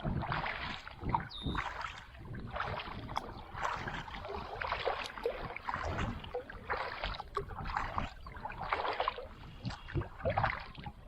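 Kayak paddle blades dipping into and splashing through river water, a stroke about once a second.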